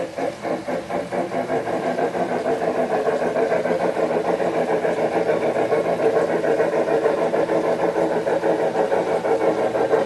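Model railroad locomotive running along the track, a steady sound with a fast, even rhythmic pulse that grows a little louder over the first few seconds.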